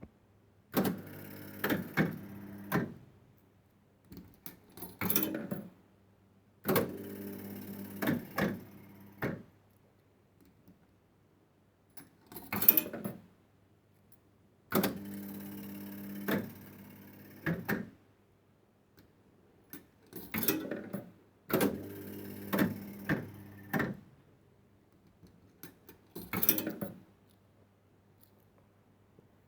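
A 1970s penny-play fruit machine being played through several games. Each game is one to three seconds of steady motor hum with clicks on top, ending in clunks as the reels stop. Shorter bursts of clicking come between the games.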